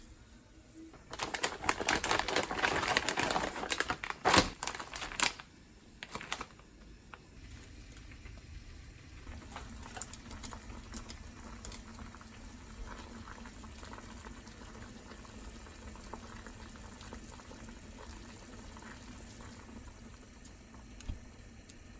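Water running loudly for a few seconds with a clunk near the end, then a pot of soup broth bubbling steadily on the stove, with small popping ticks over a low hum.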